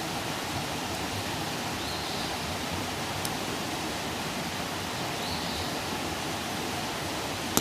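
Wood fire burning with a steady rushing hiss and occasional crackles: a faint pop about three seconds in and a sharp, louder pop at the very end.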